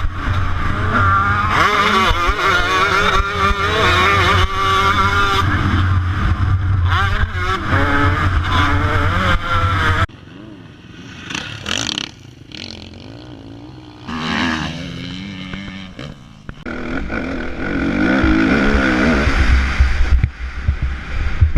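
Motocross bike engines revving hard and changing pitch as they race, several at once for about the first ten seconds. After a sudden drop in level, single bikes rev up and fall away twice, then loud engine revving returns near the end.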